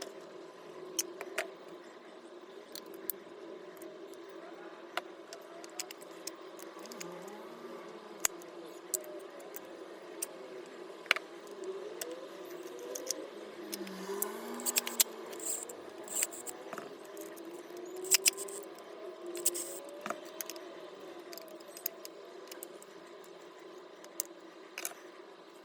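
Irregular clicks and clinks of small metal parts and tools being handled while a cordless disc grinder is taken apart, busiest about two-thirds of the way in, over a steady low hum.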